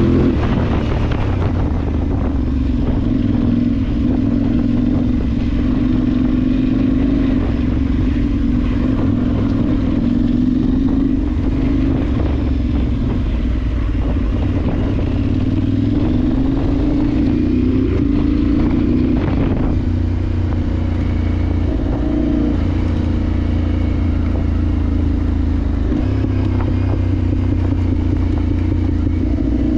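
Adventure motorcycle's parallel-twin engine running hard off-road, its note rising and dropping back again and again with throttle and gear changes.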